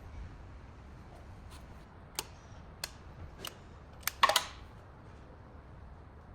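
A series of sharp single clicks, spaced half a second to a second apart, then a brief rattling clatter of several clicks about four seconds in, the loudest sound here.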